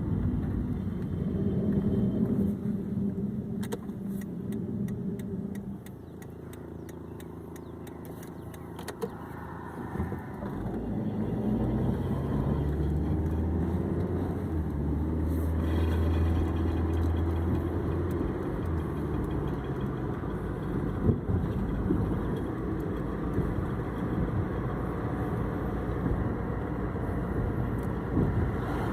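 2006 Hyundai Accent running and moving, with engine and road noise. The engine note rises about ten seconds in. The car has a grinding noise from its driver-side wheel.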